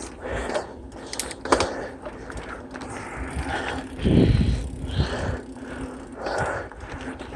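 Mountain bike rolling along a dirt trail: tyre noise with the chain and frame clicking and rattling over the bumps, and one louder low thump about four seconds in.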